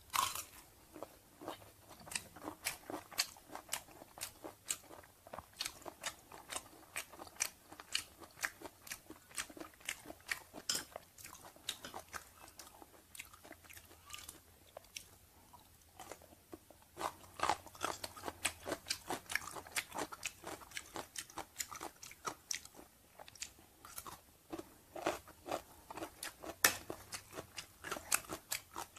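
A person chewing and crunching stir-fried chicken organs and pickled cucumber close to a clip-on microphone, with many sharp wet mouth clicks at about two or three a second. The crunching grows louder and faster about two-thirds of the way through, with a bite of pickled cucumber.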